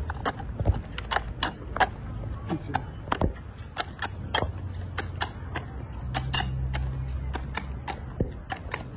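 Horse's hooves walking on a hard surface: sharp, uneven clip-clops about three a second, over a low steady hum.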